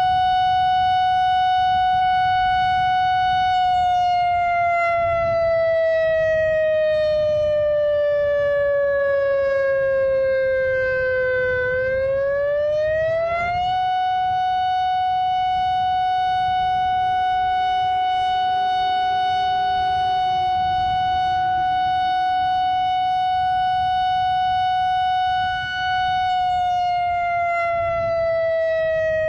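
Outdoor warning siren sounding a long, loud steady tone. Its pitch slides slowly down for several seconds, climbs back quickly, holds steady again, then begins to sink once more near the end. It is sounding an emergency flood-evacuation warning.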